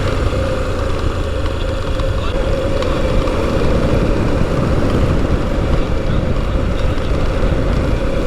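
Off-road motorcycle engine running at a steady pace while being ridden, with a steady low rumble.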